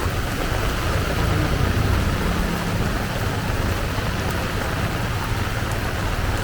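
Heavy downpour: a steady hiss of rain pouring down, with a low rumble underneath.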